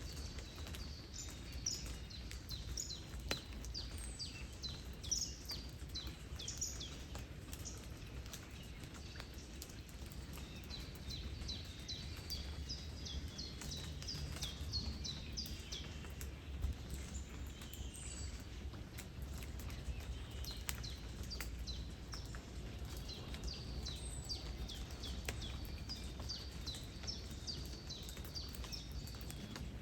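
Small birds chirping over and over, short falling notes, over a steady low rumble of wind and flowing river water, with scattered light ticks of raindrops.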